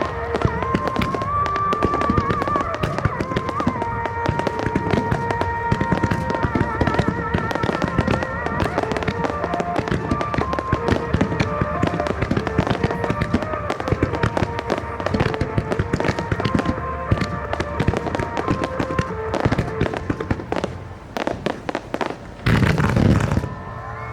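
Fireworks bursting in rapid, dense succession, many pops and bangs overlapping, with music playing along. One heavier burst comes near the end.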